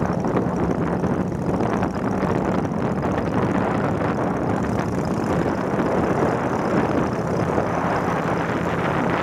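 Motorbike engine running while riding, mixed with steady wind buffeting on the microphone.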